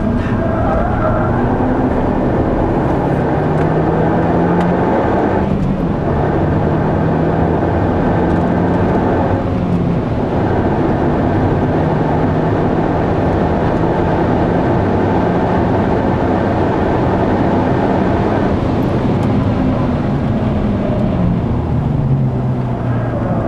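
Mazda 3 MPS's turbocharged 2.3-litre four-cylinder heard from inside the cabin, pulling hard down a straight with two brief breaks for gear changes, about five and a half and nine and a half seconds in. Near the end the engine note drops as the car slows for a bend.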